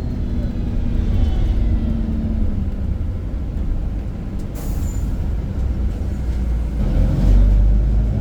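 Iveco Crossway LE 14.5 m bus heard from on board, its diesel engine running steadily under way. About halfway through there is a brief hiss of air. Near the end the engine note rises and gets louder as it pulls harder.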